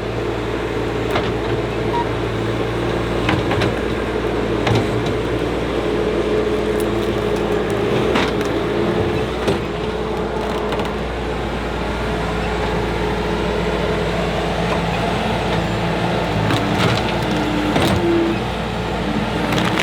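Engine of heavy equipment running steadily, with scattered short knocks and clanks.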